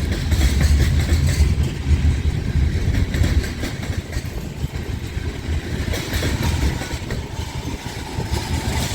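Loaded grain train rolling past, its cars making a deep, steady rumble that eases a little after about four seconds.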